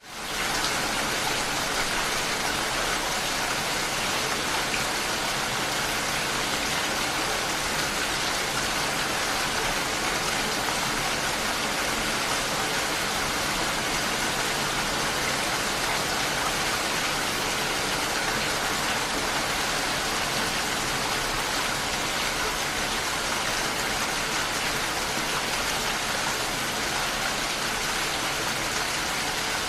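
Steady rain falling, an even continuous hiss that fades in during the first half second and then holds level.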